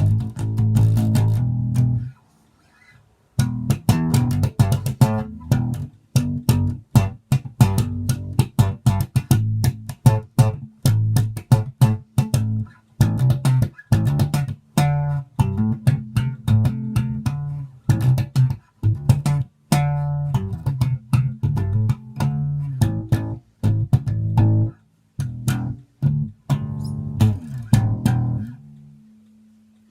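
Epiphone Limited Edition Custom Shop EB-3 electric bass played in a run of plucked notes and short riffs, with a short pause about two seconds in; near the end the playing stops and one last note is left ringing.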